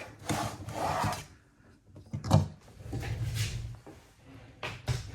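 Paper towel rustling and rubbing in short bursts, with a sharp knock about two seconds in and another near the end as small things are handled on the bench.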